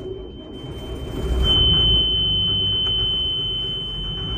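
Inboard diesel engine of a steel motor cruiser started from cold: a low rumble comes in, swells as the engine catches about a second in, and settles to a steady idle. All through, the engine panel's warning buzzer sounds one steady high tone.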